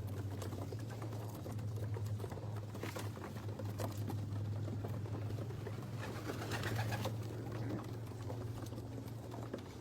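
Pet birds calling softly and moving about, with a few sharp clicks, over a steady low hum.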